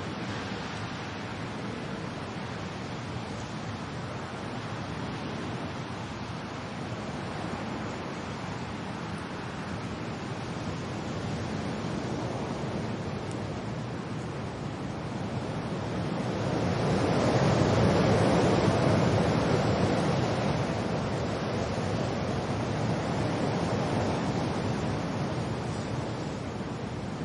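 Wind and rain: a steady rushing noise that swells into a stronger gust about two-thirds of the way through, then eases back.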